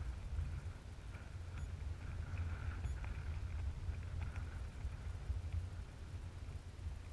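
Wind buffeting the microphone in a steady low rumble, with faint splashing and lapping of water, as heard from a kayak on open water.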